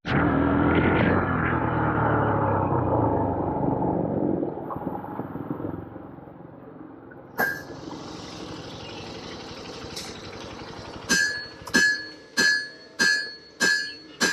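A motor vehicle engine runs loudly for the first few seconds and then fades away. Near the end come five sharp, ringing metallic clinks, evenly spaced about two every second and a bit.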